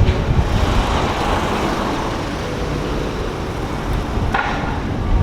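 A car driving, with steady engine and road rumble and a short click about four seconds in.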